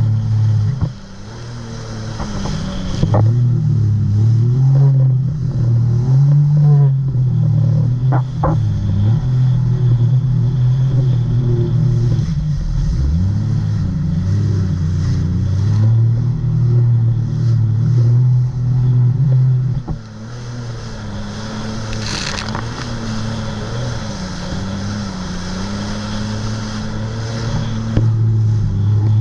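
Jet ski engine running under way, its pitch rising and falling with the throttle, over rushing water and wind. The engine drops off briefly about a second in and again about twenty seconds in.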